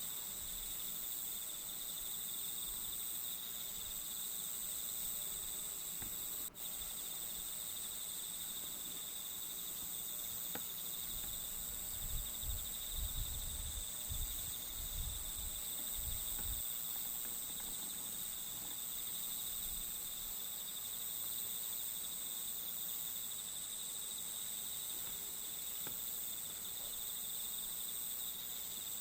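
Steady chorus of crickets trilling at a few high, constant pitches. A cluster of soft low bumps comes about twelve to sixteen seconds in.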